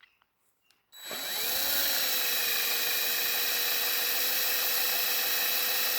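Small electric drill starting up about a second in, its whine rising briefly and then holding steady as a 1.5 mm bit is eased gently into the soft alloy of a die-cast toy truck.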